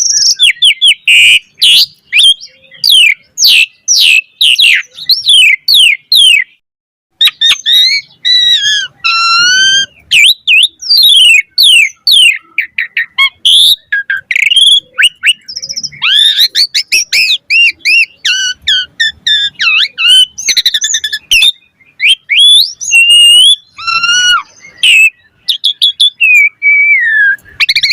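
Asian pied starling singing a fast, varied song of loud whistles, chirps and gliding notes, with a short break about six and a half seconds in.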